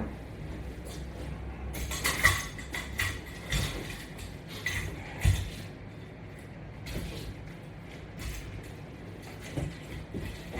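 Resistance-band exercise gear being handled: irregular light metal clinks, rustles and soft knocks over a low steady hum.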